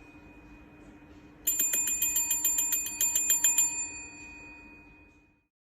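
A small metal bell rung in quick repeated strokes, a fast ringing trill in two runs with a brief break, starting about a second and a half in and fading out after the second run.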